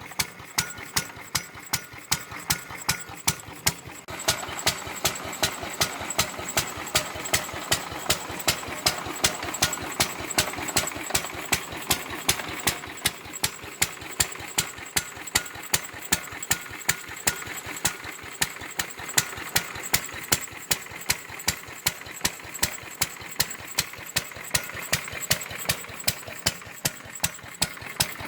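Lister D 1.5 hp single-cylinder stationary engine running steadily at low speed, with a regular beat of sharp exhaust pulses, driving an old wooden washing machine. The clattering between the beats gets louder about four seconds in.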